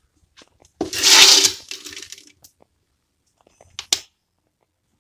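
Hard objects clattering and scraping for about a second and a half, then a single sharp click.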